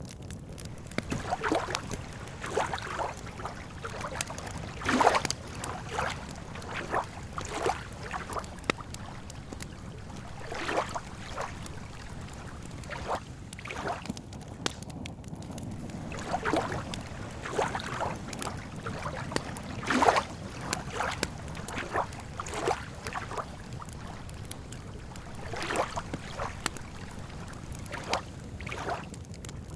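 Wood campfire crackling, with irregular snaps and pops throughout and a couple of sharper pops about five and twenty seconds in, over a low steady background.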